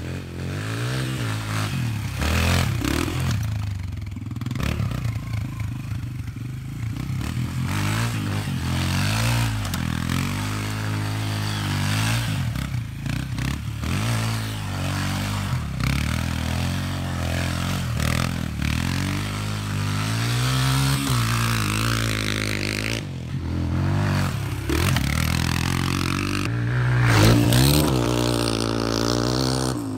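Pit bike engine revved up and down over and over, its rear tyre spinning and scraping through dirt.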